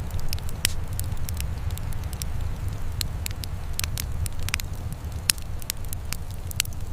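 Wood fire in a fireplace crackling, with irregular sharp pops several times a second over a low, steady rumble.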